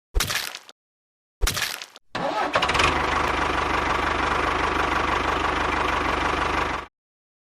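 Engine starting: two short cranking bursts, then the engine catches about two seconds in and runs steadily with an even low pulse for about five seconds before cutting off abruptly.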